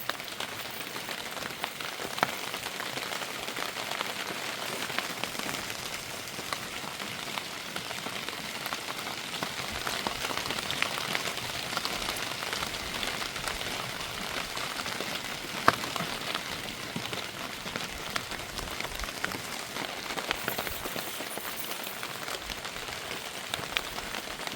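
Steady heavy rain falling, a dense patter of drops hitting a surface, with a couple of louder single drop hits about 2 and 16 seconds in.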